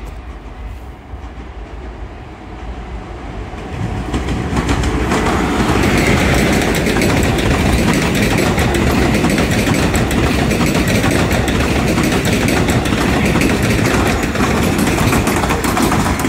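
Passenger train passing close by. Its rumble swells about four seconds in and stays loud, with the wheels clattering rapidly over the rail joints.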